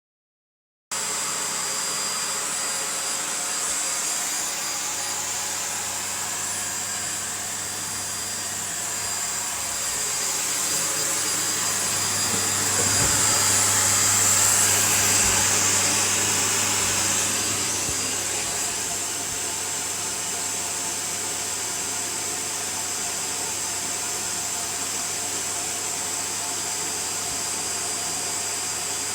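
Vacuum cleaner running steadily, a rushing noise with a high whine, growing louder for a few seconds around the middle.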